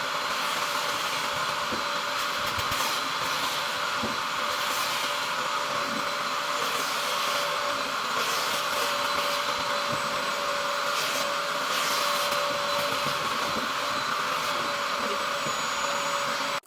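Vacuum motor running steadily: a steady whine over a continuous rush of air, cutting off suddenly at the end.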